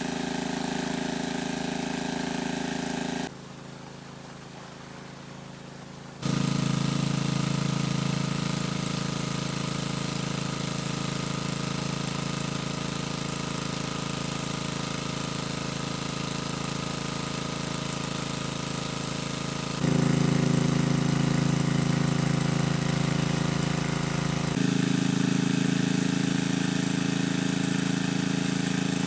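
A small engine running steadily at constant speed, its sound changing abruptly several times as the recording cuts.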